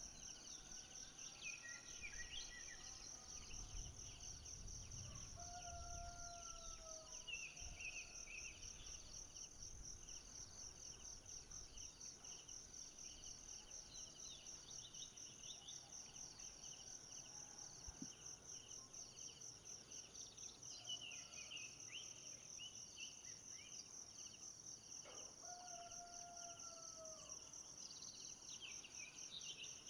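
Tropical forest ambience: insects trill steadily in a fast-pulsing high buzz. Twice, about five seconds in and again near twenty-five seconds, a falling whistled call sounds, with scattered short chirps between.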